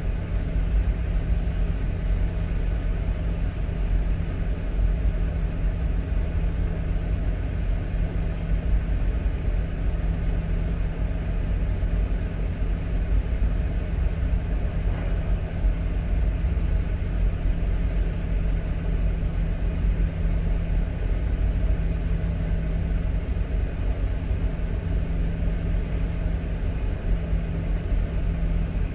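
Toyota Land Cruiser Prado's engine idling, heard from inside the cabin: a steady low rumble with a constant hum.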